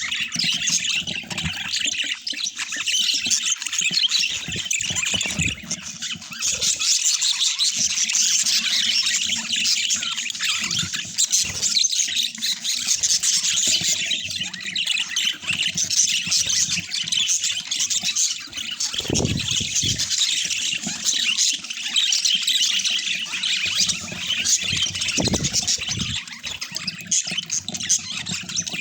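Budgerigars chattering and chirping continuously, with a few low thumps in the second half.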